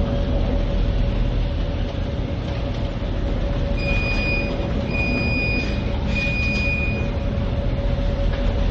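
Steady mechanical rumble with a constant low hum. Three long electronic beeps sound one after another in the middle.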